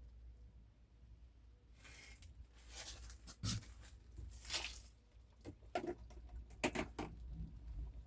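Faint kitchen handling sounds: short scrapes, swishes and light clicks of containers and utensils being moved around the hot microwaved pasta, starting about two seconds in.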